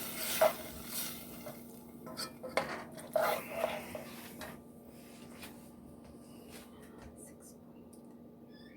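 A metal utensil clinking and knocking against a pan and dishes, a string of sharp clicks over the first half, with a faint steady hum underneath.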